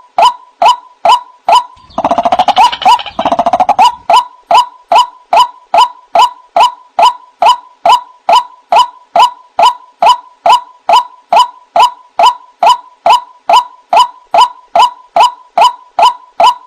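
White-breasted waterhen (ruak-ruak) lure recording: a monotonous series of 'kru-ak' calls, about two and a half a second. About two seconds in, a faster, denser run of overlapping calls for roughly two seconds, then the steady series carries on.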